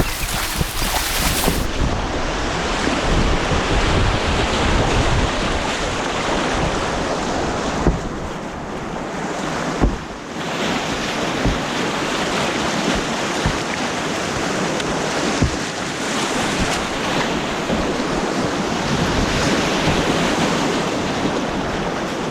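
Rushing white water of an artificial rapids course, loud and steady, with a few short sharp splashes or knocks about 8, 10 and 15 seconds in.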